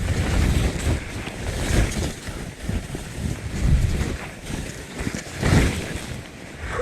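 Wind rushing over an action camera's microphone while skiing downhill, with the hiss of skis on snow; the noise surges and eases every couple of seconds with gusts of low rumble.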